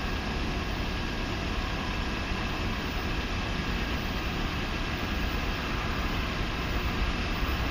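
Freight train's diesel locomotives approaching, a steady low rumble that grows slightly louder near the end.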